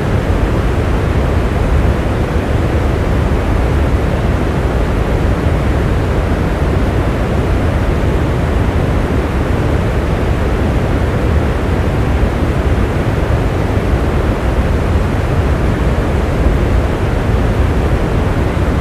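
Rain falling steadily as an even, unbroken hiss with a deep rumble underneath, and no single drops or thunder standing out.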